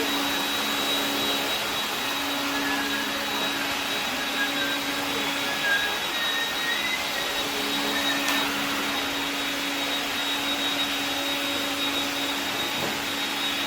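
AEG CR7 cordless vacuum cleaner running steadily on its retrofitted brushless motor: an even rush of air with a thin, steady high whine.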